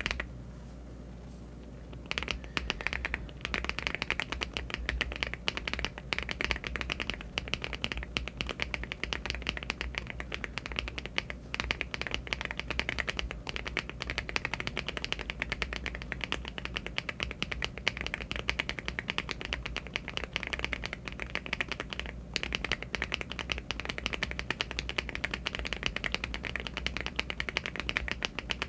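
Mechanical keyboard being typed on quickly and continuously: HMX Candy Red switches in a LEOBOG Hi75 aluminium-case keyboard with Cherry-profile keycaps. The keystrokes start about two seconds in, after a short pause, and break off briefly once more later on.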